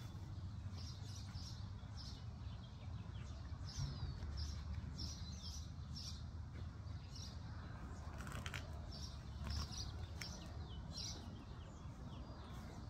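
Small birds chirping over and over, short high chirps about twice a second, some dropping in pitch, over a steady low rumble.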